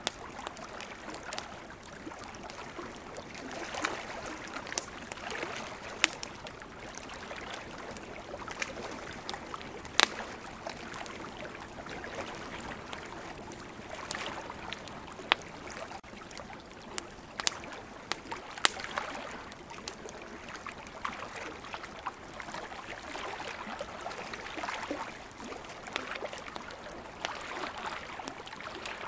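Wood campfire crackling, with sharp pops scattered through it, over a steady wash of ocean waves that swells and eases every few seconds.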